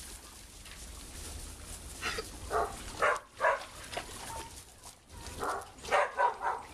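Dog barking, a series of short barks starting about two seconds in, then a faster cluster of barks near the end.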